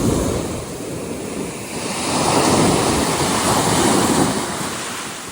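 Sea waves washing onto the shore, swelling louder about two seconds in and easing off again, with wind buffeting the microphone.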